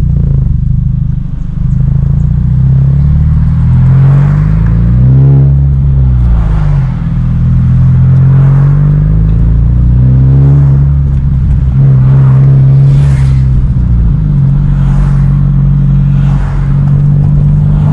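Hyundai Genesis Coupe 2.0T's turbocharged four-cylinder engine droning through a Tomei titanium single exhaust while driving, its pitch rising and falling a few times with the throttle and gear changes.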